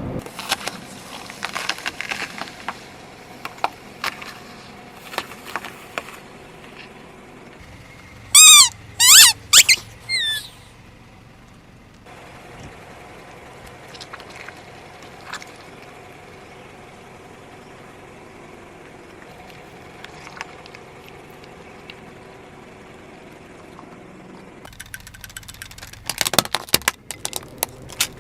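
Objects cracking and crunching as a car drives over them, in scattered sharp snaps during the first few seconds and again near the end. Around a third of the way in come several loud wavering squeals, and a faint steady hum fills the quieter middle.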